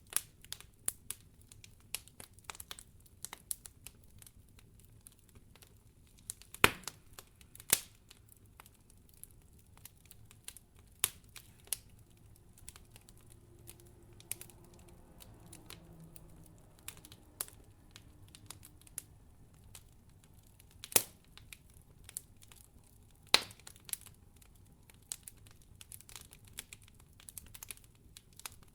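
Wood fire crackling in a fireplace: a steady scatter of small irregular crackles, with four louder pops standing out.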